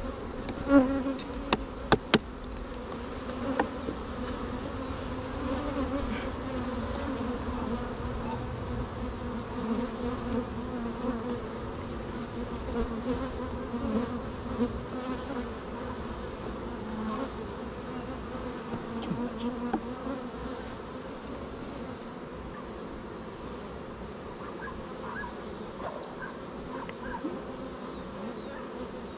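A mass of honeybees buzzing around an open hive: a steady, wavering hum. A few sharp knocks come a second or two in.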